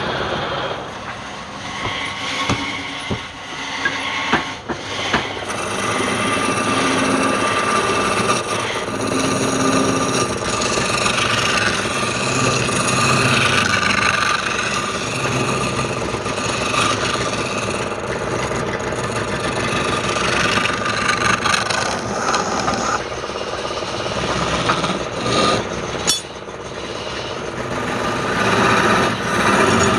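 Wood lathe running with a tool rubbing against the spinning wood, a continuous rough scraping that rises and falls in level.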